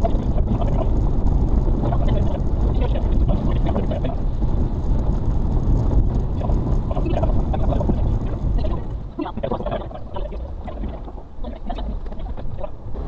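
Suzuki Carry kei truck's 660cc engine and drivetrain running under load off-road, heard from inside the cab: a steady low rumble with scattered knocks and rattles from the body over rough ground. About nine seconds in it eases off and gets quieter.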